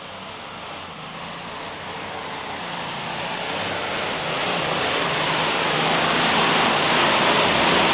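Super Stock diesel pulling tractor, an International, running hard under load on a pull, a dense engine roar with a steady high-pitched whine over it, growing steadily louder.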